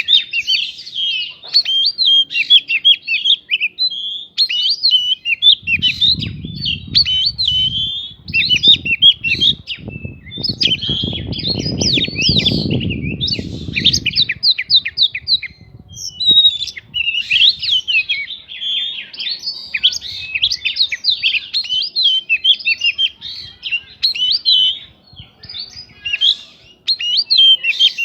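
Oriental magpie-robin (kacer) singing a loud, fast, varied song of chirps and whistles with only brief pauses. A low rumbling noise runs underneath from about six to fourteen seconds in.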